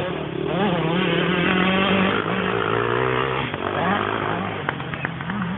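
Motocross dirt bike engines revving, their pitch rising and falling over and over as the bikes ride, with more than one engine audible at once.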